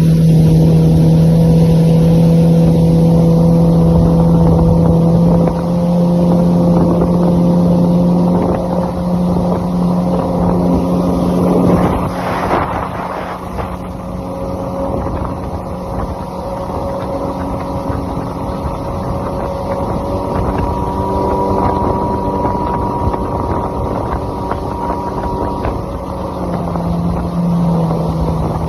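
Jet ski engine running steadily at speed, a constant drone, with a short rush of noise about twelve seconds in after which it runs a little quieter.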